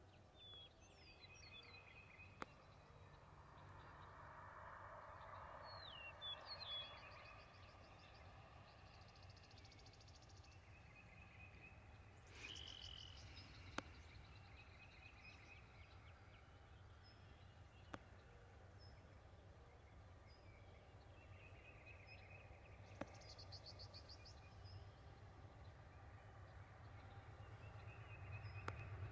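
Birds chirping and trilling repeatedly over a faint low rumble that swells near the end, with a few sharp single clicks.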